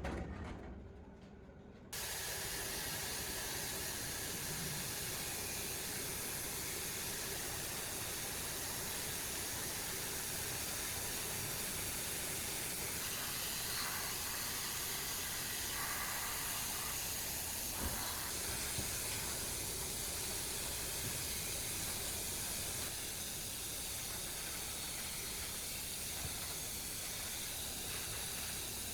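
Steady hiss of a compressed-air tool blowing or spraying, starting suddenly about two seconds in.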